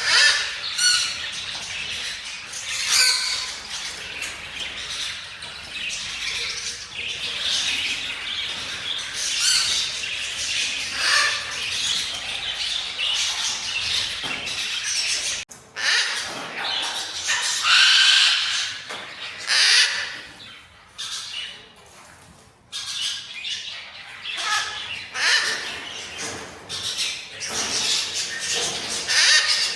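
Parrots squawking and screeching, many harsh calls following one another, with a steady low background that drops out about halfway through.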